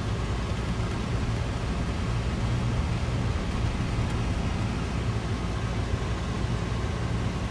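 Vehicle engine and road noise while driving: a steady low hum under an even rush of noise.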